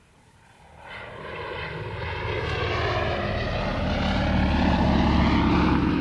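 Bristol Fighter biplane's Rolls-Royce V12 aero engine and propeller flying past: the engine sound swells over a few seconds, peaks, and begins to fade near the end, its pitch sliding as it goes by.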